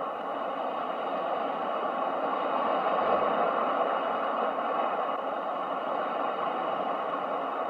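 Ocean waves: a steady rush of surf that slowly swells to a peak about three seconds in, then eases off.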